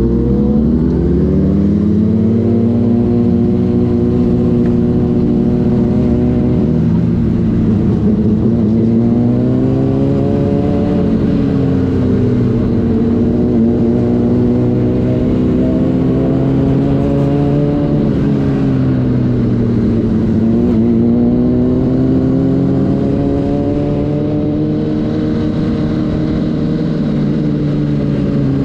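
Sport bike's inline-four engine at highway cruising speed: its pitch climbs over the first two seconds as it accelerates, then holds steady, easing off briefly and picking back up twice.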